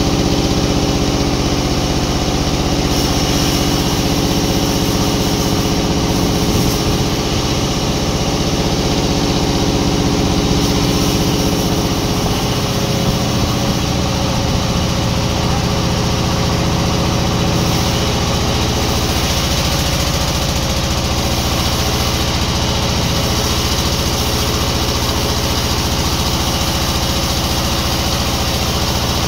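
Sawmill machinery running steadily, an engine-like drone whose pitch pattern shifts about twelve seconds in.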